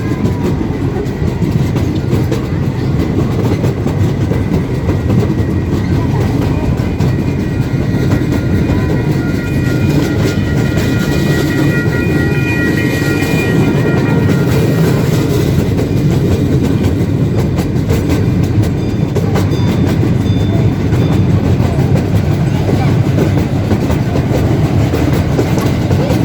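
Narrow-gauge park train running along the track: a steady low rumble with wheels clacking over the rail joints. Partway through, a high ringing tone sounds for several seconds, then fades.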